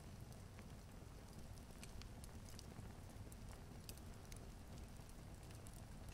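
Log fire crackling: scattered small pops and snaps, irregularly spaced, over a faint steady low rumble.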